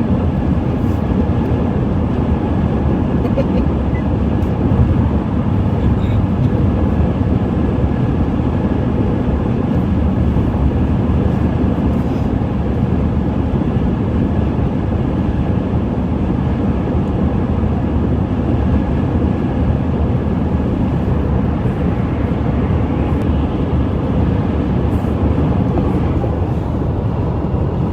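Steady road and tyre noise with engine hum inside a car's cabin, cruising at freeway speed.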